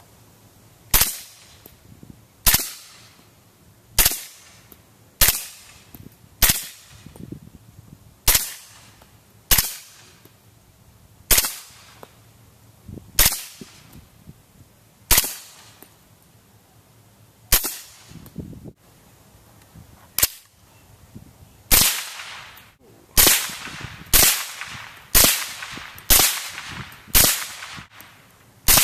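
Series of about nineteen suppressed shots from a Sig Sauer 1911 Carry Scorpion .45 ACP pistol fitted with a SilencerCo Osprey 45 suppressor. The shots are spaced one to two seconds apart at first and come faster, about one a second, near the end.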